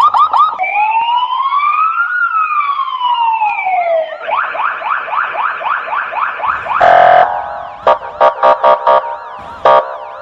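Electronic police siren cycling through its tones: a fast yelp, then one slow wail rising and falling, then the fast yelp again, a short harsh blast about seven seconds in, and a run of rapid pulsed tones near the end.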